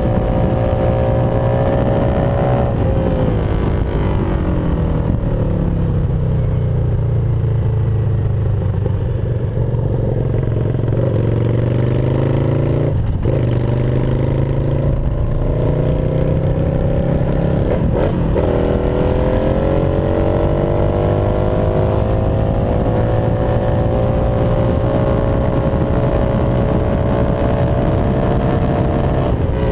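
Cruiser motorcycle engine under way, heard from the rider's seat. Its note falls for a few seconds, then climbs through the gears, with brief breaks for gear changes about 13 and 18 seconds in. After that it runs on, rising slowly.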